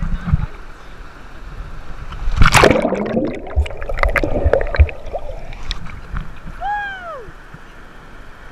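Sea water sloshing and gurgling around the camera, with a loud splash about two and a half seconds in, after which the sound is briefly muffled.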